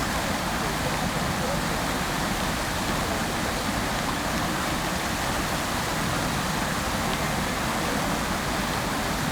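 Fountain water spraying and splashing into its basin: a steady, unbroken rush of falling water.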